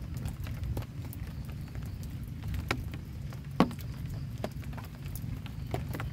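Heavy rain on a camping shelter: a steady low rumble with scattered sharp taps and clicks, one louder tap about three and a half seconds in.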